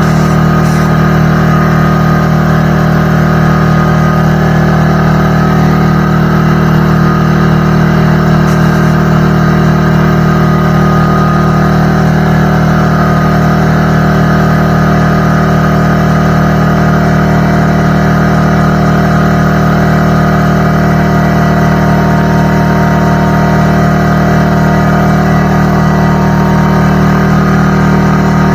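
McGraw 21-gallon air compressor running steadily under load, its pump motor humming loud and unbroken as it fills the tank.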